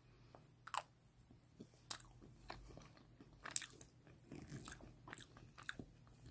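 Close, quiet eating sounds: someone chewing a mouthful of ice cream cake, with small mouth clicks and soft crunches scattered through. The sharpest click comes about halfway.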